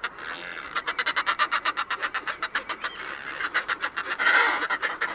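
A pair of northern fulmars cackling together in their noisy greeting ritual. The calls are a fast, chattering run of about ten pulses a second, getting louder a little past four seconds in.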